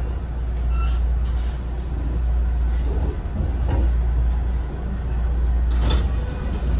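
Cabin running sound of a JR West 207 series commuter train's unpowered driving trailer car as it slows to stop at a station: a steady low rumble of wheels on rail, faint brake squeal, and a sharp knock about six seconds in.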